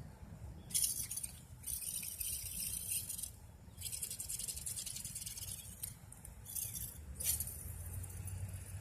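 Fishing reel being cranked in several spells of one to two seconds, a high rattling whir, to retrieve line.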